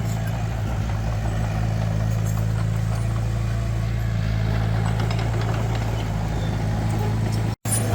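Heavy diesel engine of earthmoving equipment running at a steady speed, with no change in pitch; the sound drops out completely for an instant near the end.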